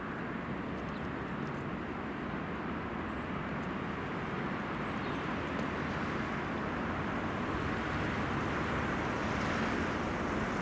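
Freight train hauled by a VL80S electric locomotive approaching: a steady running noise that slowly grows louder.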